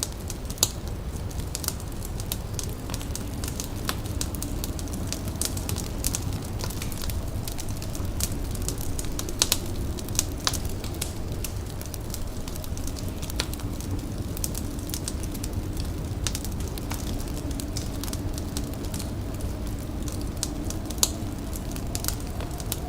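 Indoor fire crackling, with irregular sharp pops over a steady low rumble.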